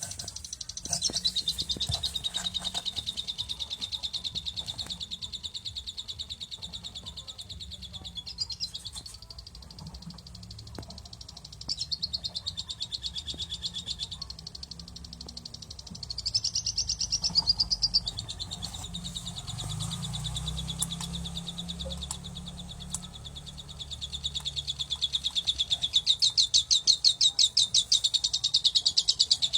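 A baby bird chirping loudly and almost without pause, in long runs of rapid, high, evenly repeated chirps broken by a few short gaps.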